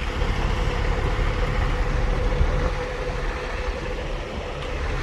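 Semi-truck diesel engine running steadily with a low rumble.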